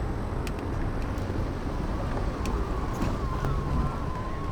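Wind buffeting the camera microphone and a low rumble while riding an e-bike on throttle. A thin, wavering whine comes in about halfway through, with a few faint ticks.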